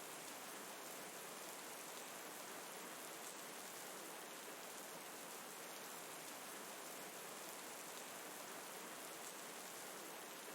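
Soft, steady rain: an even hiss of falling rain with no let-up.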